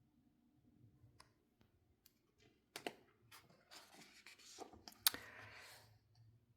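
Faint handling noise: a few sharp clicks, with soft rustling between them.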